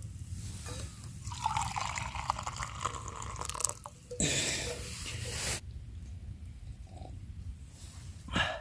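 Water pouring and trickling into a pot for tea, for about two seconds. About four seconds in comes a short rushing noise.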